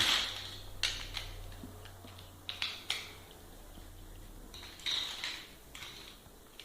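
Plastic building blocks clicking and clattering as they are handled and fitted together, about half a dozen sharp clacks.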